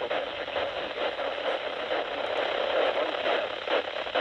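Radio receiver audio with narrow, telephone-like sound: a steady static hiss over a weak, muffled broadcast voice.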